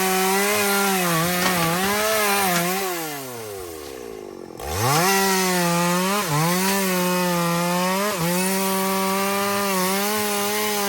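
Two-stroke chainsaw cutting wood at full throttle, its pitch dipping briefly a few times under load. About three seconds in it drops back to idle, then revs up again after about a second and a half and carries on cutting.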